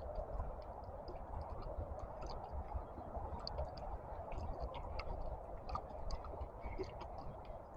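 Muffled handling and walking noise from an action camera in a closed protective case, carried by someone walking briskly: a steady dull rustle with many small irregular clicks and ticks.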